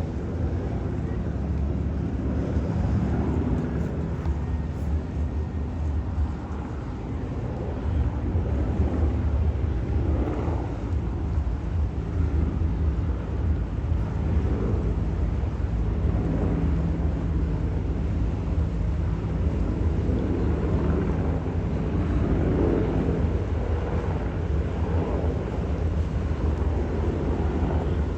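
Helicopter flying over the water, its engine and rotor giving a steady rumble that swells and eases slightly. Wind rumbles on the microphone.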